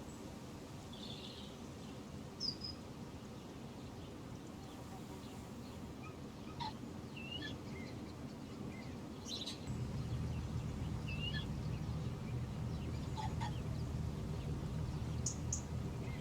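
Small birds chirping now and then over a steady low background rumble, which grows louder about ten seconds in.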